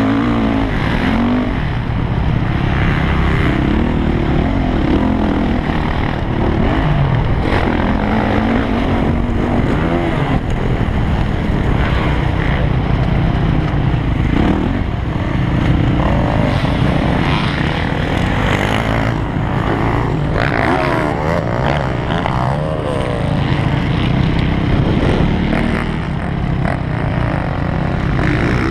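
Motocross bike engine being ridden, its pitch rising and falling again and again as the throttle opens and closes.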